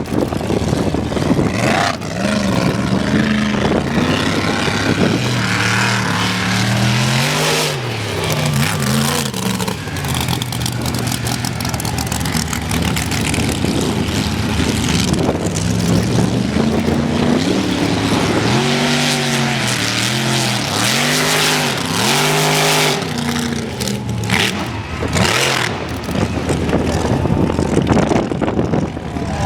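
Mega truck's engine revving hard and unevenly, its pitch surging up and dropping back again and again, over a constant rushing noise.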